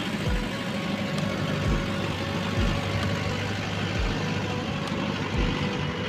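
Tractor engine running steadily while the tractor drives along, with low thudding bumps roughly every second.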